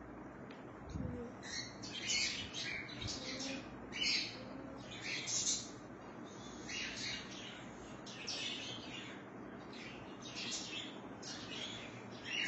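Birds chirping and twittering in short, irregular high bursts, several each second.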